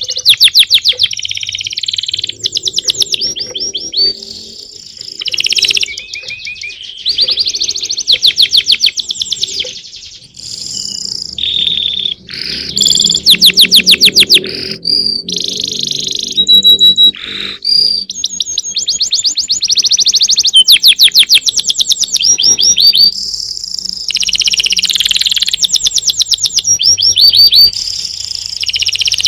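Small songbirds singing loudly and continuously: a long, varied song of rapid trills and quick runs of repeated chirps, broken by brief pauses.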